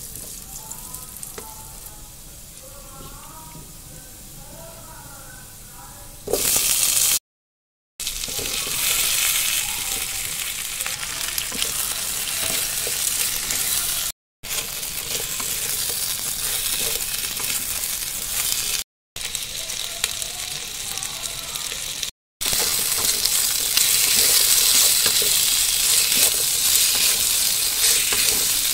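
Sliced onions and dried red chilli, then potato slices, sizzling loudly in hot oil in a pan while a wooden spatula stirs them. The sizzle comes up loud about six seconds in and drops out to silence for brief moments several times.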